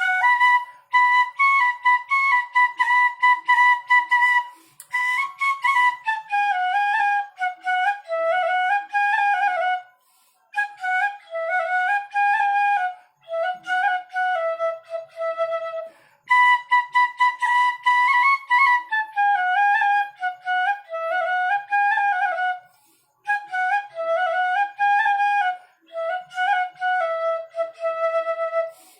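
Bansuri (Indian bamboo flute) playing a Hindi film song melody solo, in phrases separated by short pauses for breath.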